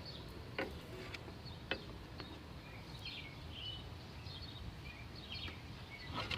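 Small birds chirping in short scattered calls over a steady low background rumble, with a couple of sharp clicks in the first two seconds.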